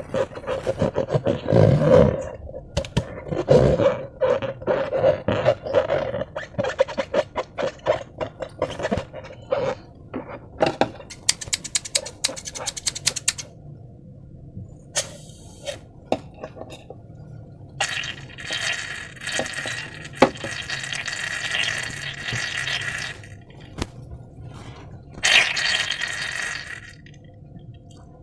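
Slime being worked by hand with balloons: wet squelching and quick sticky clicks, then a long hiss and a shorter second hiss near the end.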